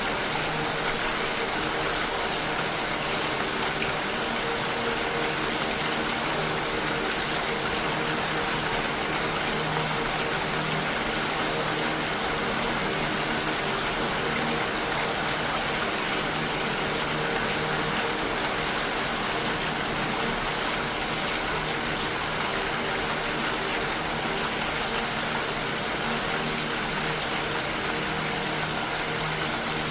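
Steady rushing water, an even hiss with no breaks, over faint steady low tones.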